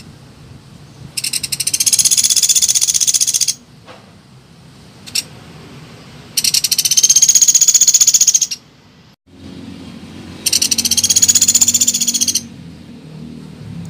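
Lure recording of a pelatuk beras bird: three long, rapid, high-pitched trills of about two seconds each, with a short call between the first two, over a faint low hum.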